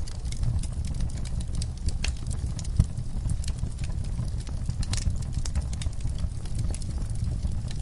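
Wood fire crackling in a fireplace: irregular sharp pops and snaps over a steady low rumble of the burning logs, with one louder pop about three seconds in.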